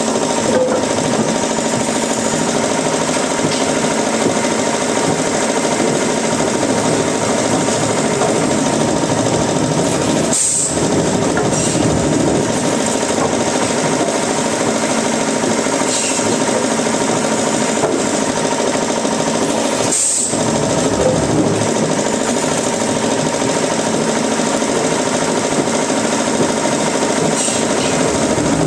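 Woodworking machinery running steadily with a dense, grinding noise and a constant hum, broken off for an instant about ten and twenty seconds in.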